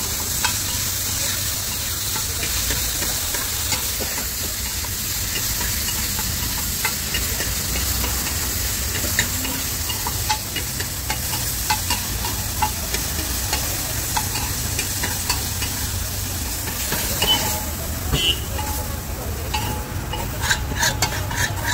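Chicken and noodle filling frying on a large flat iron tawa: a steady sizzle with a low rumble underneath, and a metal spatula scraping and clicking against the iron as it is stirred. Near the end the sizzle eases and a run of quick, even spatula strokes follows.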